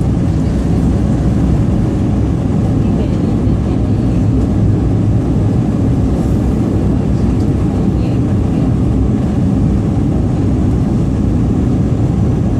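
Steady cabin rumble of an Airbus A220-300 with its Pratt & Whitney PW1500G geared turbofan engines running, heard from inside the cabin.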